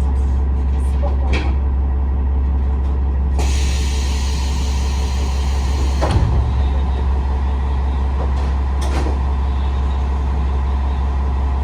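Kiha 47 series diesel railcar running, its diesel engine giving a steady low drone. A hiss begins about three seconds in and lasts about two and a half seconds, ending with a short thump.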